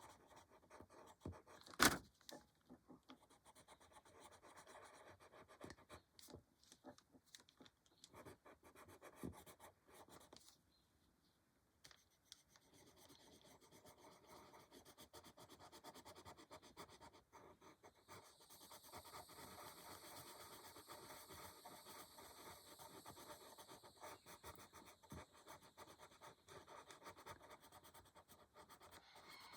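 Faint scratching and rubbing of a colored pencil shading on paper, with one sharp click about two seconds in and a short pause about ten seconds in.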